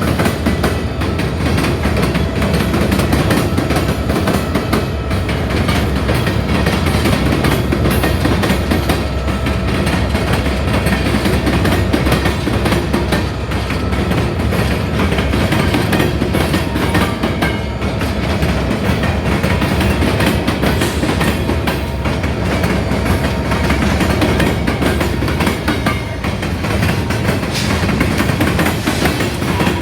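Freight train's coal hopper cars rolling past at steady speed: a continuous rumble of steel wheels on rail.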